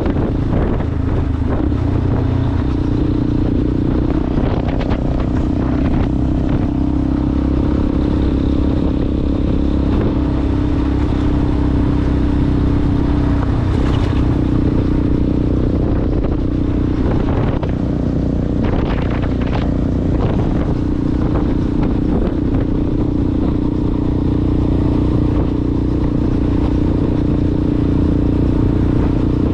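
Yamaha Ténéré motorcycle with an aftermarket Coyote exhaust running steadily while riding off-road. Its exhaust note holds a nearly even pitch, with a few clattering knocks about halfway through.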